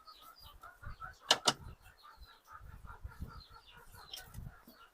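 Chickens clucking faintly in short repeated calls, with two sharp clicks close together about a second and a half in.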